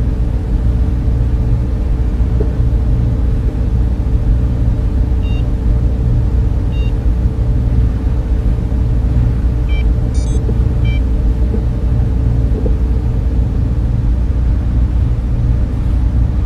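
Server room cooling fans and machines running, a steady deep rumble with a constant hum, and a few faint short high chirps in the middle.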